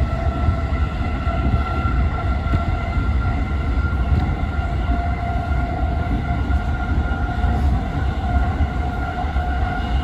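Yokosuka Line electric train running, heard inside the carriage: a steady low rumble of the wheels on the track, with a motor whine that rises slightly in pitch about halfway through.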